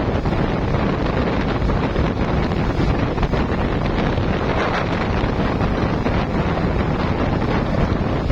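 Steady wind buffeting the microphone on a moving boat, an unbroken rush of noise heaviest in the low end, with the running boat and water beneath it.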